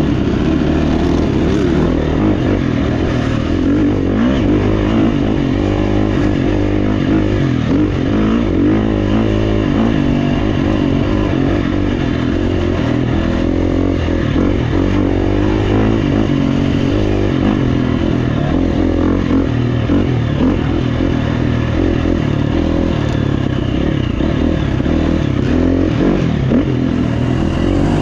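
GasGas EX350F dirt bike, a 350 cc four-stroke single, ridden on trail. The engine runs continuously, its revs rising and falling with the throttle.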